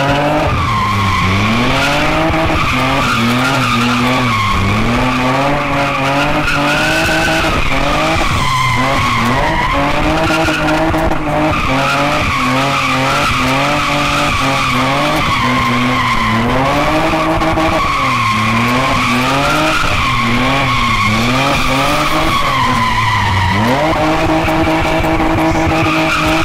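BMW E36 engine revving hard through a cheap home-built exhaust with Chinese headers while the car spins its rear tyres, the revs dropping and climbing every second or two and rising and holding higher near the end. Over it the tyres give a steady screech.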